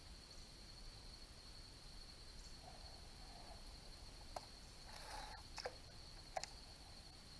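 Quiet outdoor ambience with a steady, high, thin insect drone like crickets. A few sharp clicks come about halfway through.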